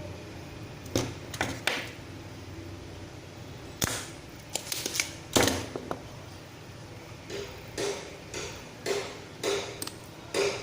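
Scattered small clicks and taps of hand tools against a circuit board, about a dozen, some in quick clusters, while a ceramic capacitor's leg is being desoldered and pulled up to trace a short on the board.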